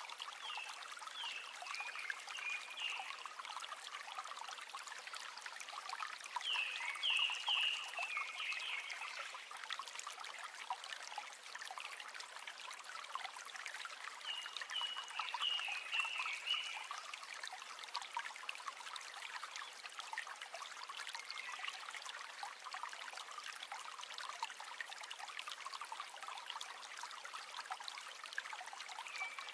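River water trickling and babbling steadily over stones. About every seven seconds a short, high animal call of several quick falling notes repeats, four times in all.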